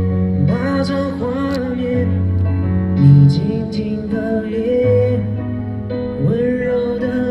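Live performance of a slow pop ballad: a male singer's voice over band accompaniment with a steady bass line.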